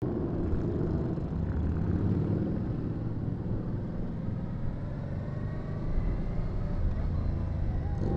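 Honda Deauville V-twin motorcycle engine running steadily under way, with road and wind noise, heard from the rider's seat.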